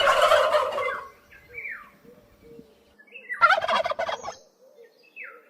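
Turkey gobbling: two rattling gobbles, one at the start and one about three and a half seconds in, with a few short high calls between and after them.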